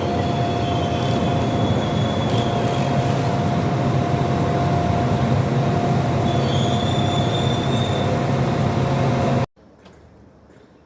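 A train moving close by, with a steady rumble and hum and two high-pitched squeals from its wheels. The sound cuts off suddenly near the end.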